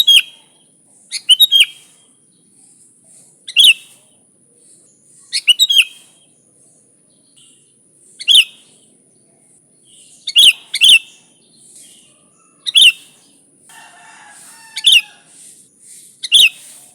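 Sooty-headed bulbul (kutilang) calling: about ten short, sharp, loud notes, some in quick pairs, spaced one to two seconds apart, over a faint steady high whine.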